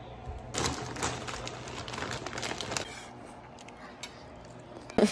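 Crisp crunching of a tortilla chip being bitten and chewed for about two seconds, followed by a few faint clicks.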